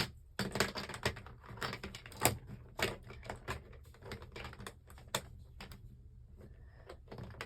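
Plastic Lego bricks clicking and clattering as pieces are handled and sorted through: a quick run of small, sharp clicks that thins out after the halfway mark.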